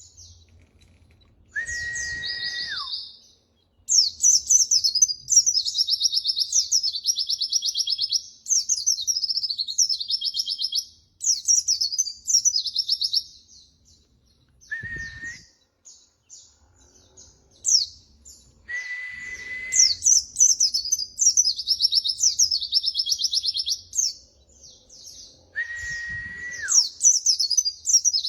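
White-eye (pleci) singing in long runs of rapid, high trilled chirps, broken by short pauses. A few times a separate flat, lower whistle held for about a second cuts in, some of them dropping in pitch at the end.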